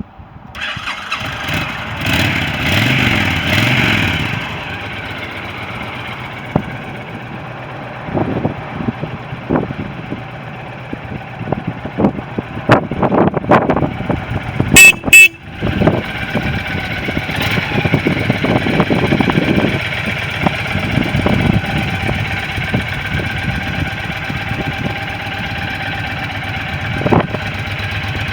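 2007 Honda VTX1300R's V-twin engine running, with several revs of the throttle between stretches of idle. About halfway through, the horn gives two short beeps.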